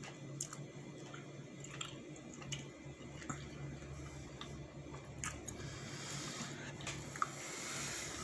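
A person chewing a mouthful of soft barbecued fish, with a few small scattered clicks, over a faint steady low hum.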